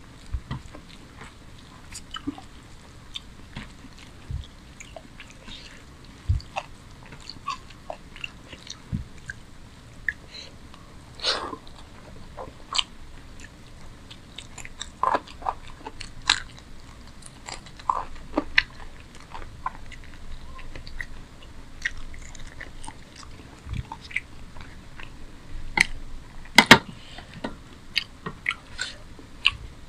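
Close-miked eating sounds: a man chewing rice and chicken curry, with irregular wet clicks and mouth smacks.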